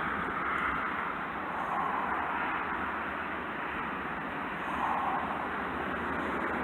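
Steady road-traffic noise, with a vehicle swelling past about five seconds in.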